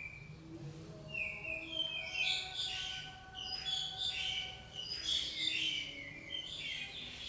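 Small birds chirping: many short, high chirps overlapping, busiest from about two seconds in.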